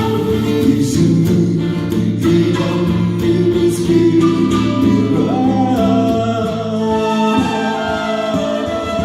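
A song being performed: singing over a music accompaniment with guitar. About five seconds in, a note slides up into a long held tone.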